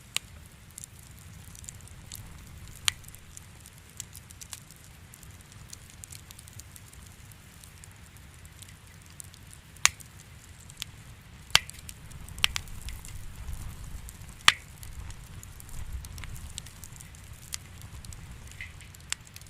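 Wood fire crackling in a fireplace: sharp pops at irregular intervals over a low, steady rumble. The loudest pop comes about fourteen and a half seconds in.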